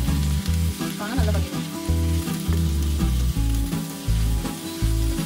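Food frying in oil in a pan, sizzling steadily, under background music with a steady bass beat.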